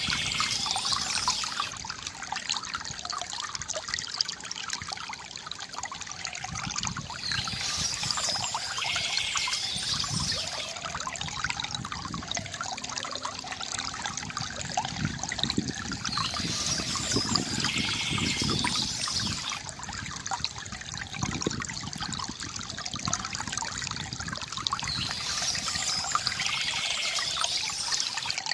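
Water from a bamboo fountain trickling and gurgling steadily. A brief high-pitched chirping sound comes back about every nine seconds.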